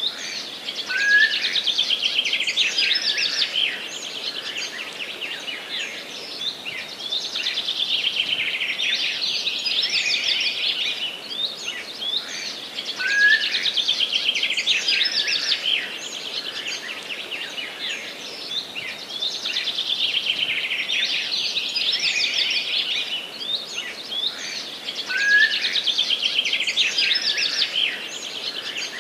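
Songbirds singing and chirping in a dense chorus of rapid, high-pitched notes. The same passage repeats about every twelve seconds.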